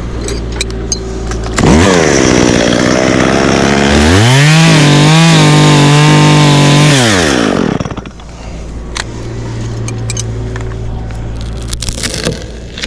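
Two-stroke chainsaw idling, then revved up about one and a half seconds in and held near full throttle for several seconds before dropping back to idle near the eight-second mark. A few light clicks follow while it idles.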